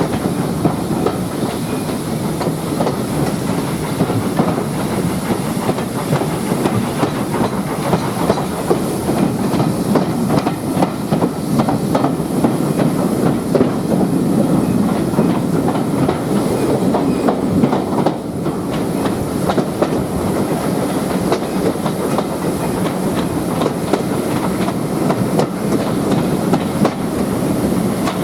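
A train running along the track, its wheels clicking steadily over the rails.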